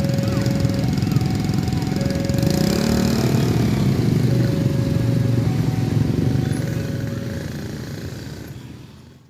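Railroad crossing warning alarm sounding a two-tone signal, a lower and a higher tone taking turns about once a second, over the steady running of engines from waiting traffic, likely motorcycles. It all fades out near the end.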